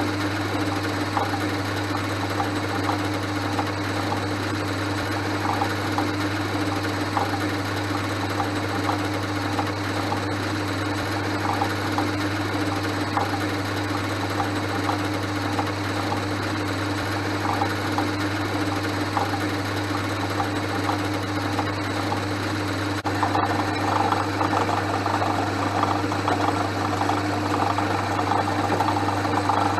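Portass Model S metal lathe running steadily under power with a strong hum, drilling a 2.8 mm hole into round bar with a drill held in the tailstock chuck. About 23 seconds in the sound gets a little louder and rougher.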